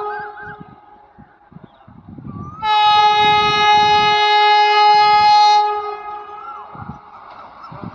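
Train horn sounding one long, steady blast of about three seconds, starting a little over two and a half seconds in, as a train passes through a station. Under and after it come the rumble and knocking of the wheels and a steady rush of the passing train; a previous horn blast dies away in the first second.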